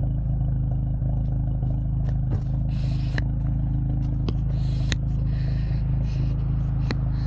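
A modified VW MK7 Golf GTI's turbocharged 2.0-litre four-cylinder, fitted with an IS38 turbo and aftermarket exhaust, running at steady revs with an even low drone. A few light clicks and brief patches of hiss sound over it.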